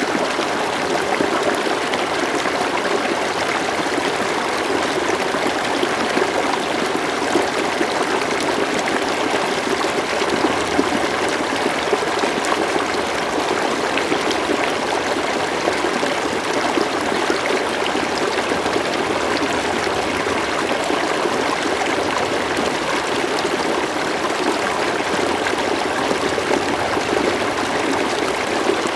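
River water flowing and babbling steadily, a continuous wash with small splashes and trickles throughout.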